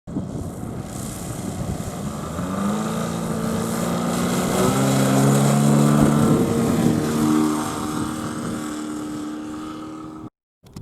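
Gasoline engine of a large-scale radio-controlled aerobatic plane, a Desert Aircraft DA200L four-cylinder, running. It grows louder to a peak about six seconds in, its pitch shifting as it passes, then fades. The sound cuts off abruptly near the end.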